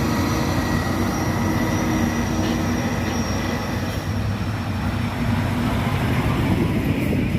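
Heavy diesel truck engine running steadily, a low drone with a faint high whine above it.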